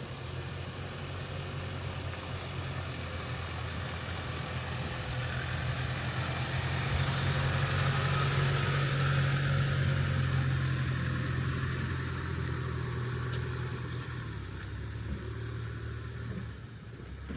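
A road vehicle running: a steady low engine hum with road noise that swells in the middle and eases off toward the end.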